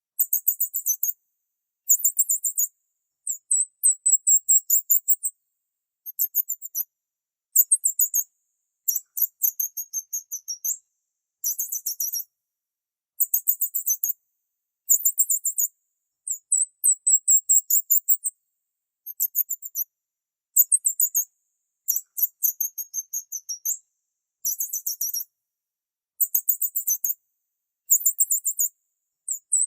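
High-pitched bird chirping in rapid trills, repeated in bursts about a second long with short silent gaps between.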